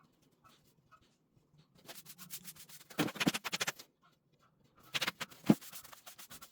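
Broom bristles brushing over a floor in two spells of quick scratchy strokes, with a few sharper knocks in among them.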